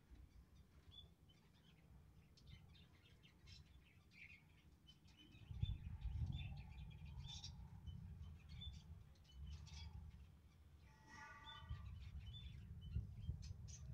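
Faint birds chirping in short, scattered high notes, with one brief pitched call about eleven seconds in, over a low rumble that grows louder about halfway through.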